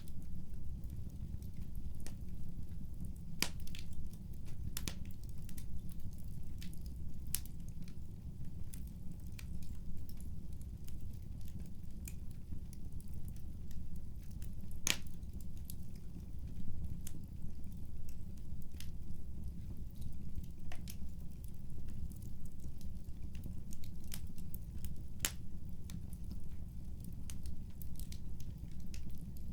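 Wood fire in a fireplace crackling: a steady low rumble with irregular sharp pops and crackles scattered throughout.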